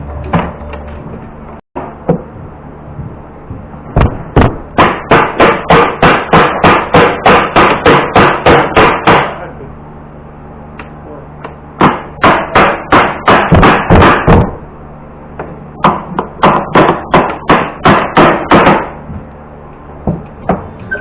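Hammer blows on a plywood strip that shields the edge of a glued-up cedar panel, knocking the boards tight during glue-up. The blows come in three quick runs of about three strikes a second.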